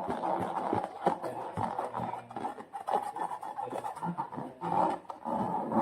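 Slime being squeezed and worked by hand in a rubber balloon, a dense run of irregular squelching and rubbery rubbing noises.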